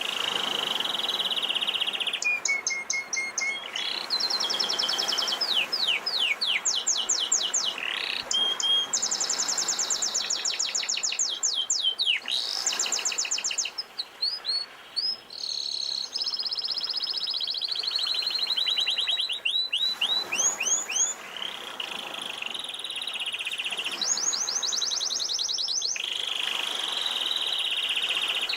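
Domestic canary singing a long, continuous song: a chain of fast trills of rapidly repeated notes, switching to a new trill every second or two, with a short lull about halfway through.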